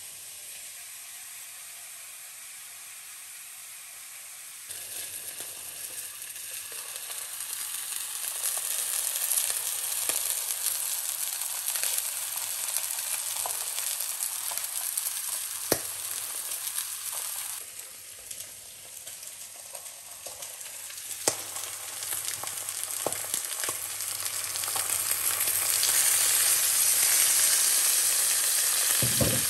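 Kipper fillet, Brussels sprouts, mushrooms and carrots sizzling as they fry in butter in a frying pan. The hiss is quieter for the first few seconds, jumps louder about five seconds in, dips briefly past the middle and is loudest near the end, with a couple of sharp clicks along the way.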